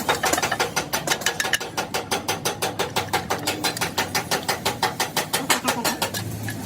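Rapid, evenly spaced metal strikes, about seven a second, that stop about six seconds in.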